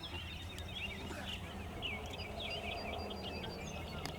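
Small birds chirping and singing in quick, overlapping calls, several a second, over a low steady hum.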